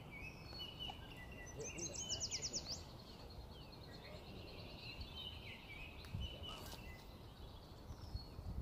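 Small birds singing and chirping, with a quick run of short descending notes about two seconds in, over a steady low background noise.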